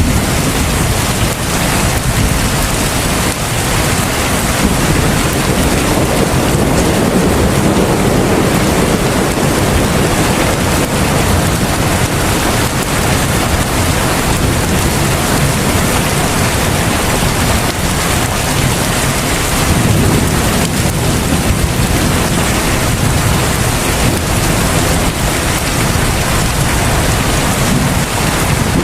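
Heavy rain falling steadily, a dense even hiss with a strong low rumble underneath.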